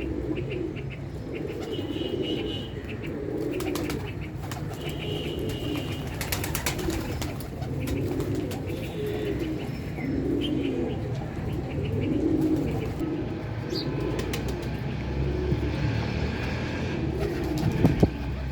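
Pigeons cooing, a low call repeating about once a second, with a few faint higher chirps and scattered sharp clicks.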